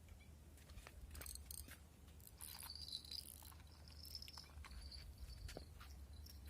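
Near silence: a low steady rumble of wind on the microphone, with faint high insect chirps and a few small clicks.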